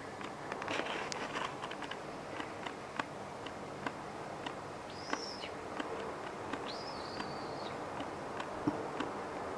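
Two high, thin whistled bird calls, a short one about five seconds in and a longer held one about two seconds later, over a steady faint hiss with scattered small clicks.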